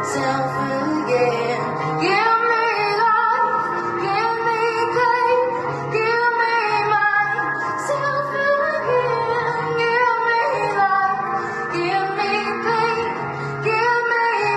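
A woman singing a song live, with sustained, gliding sung notes over a steady instrumental accompaniment.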